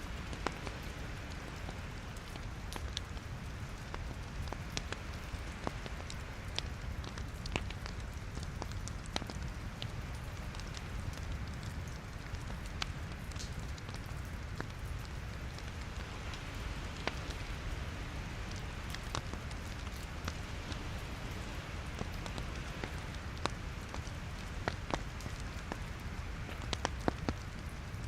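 Wood logs burning in a fireplace: a steady low rumble of flame with irregular sharp crackles and pops.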